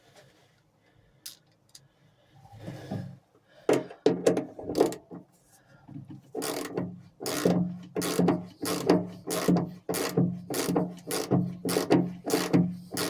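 Socket ratchet clicking in short repeated strokes, a few at first, then steadily about two a second from roughly six seconds in, as it tightens a hose clamp.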